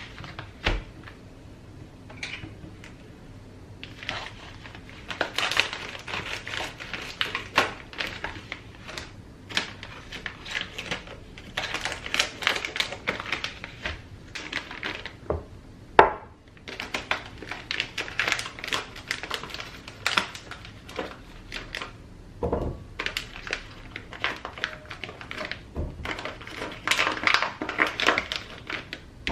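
Bursts of rapid tapping and clicking, each lasting a few seconds, with a single sharper knock about halfway through.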